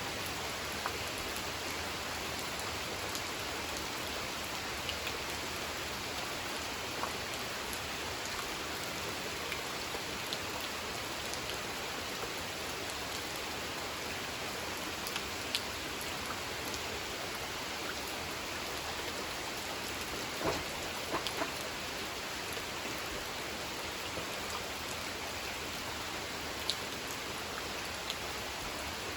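Steady rain falling on a pond, an even hiss of rain with scattered louder drops ticking through it, a few in quick succession about two-thirds of the way through.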